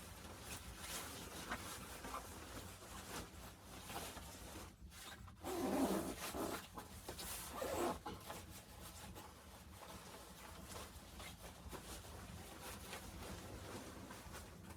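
Rustling and rubbing handling noises, with a louder stretch of a couple of seconds about midway.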